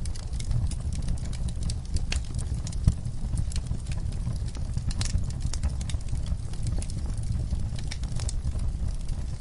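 Wood fire burning in a fireplace: a steady low rumble of flames with irregular sharp crackles and pops, one louder pop about three seconds in.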